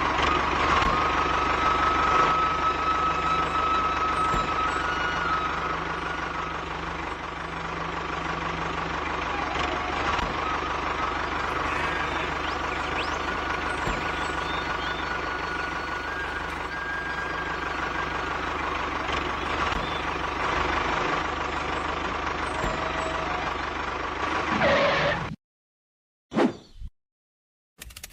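Mini tractor running: a steady engine-like hum with a thin higher whine over it. It cuts off abruptly near the end, followed by a brief blip.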